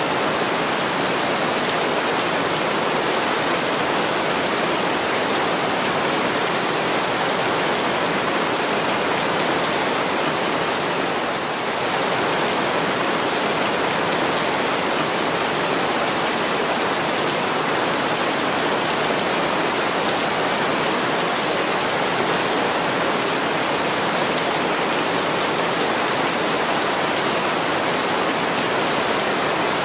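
Heavy rain pouring down steadily in a dense, even hiss, rain on window glass.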